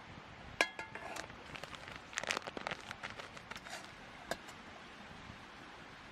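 Small hard objects being handled: a sharp ringing clink, then a run of light clicks and clatters that dies away by about four seconds in.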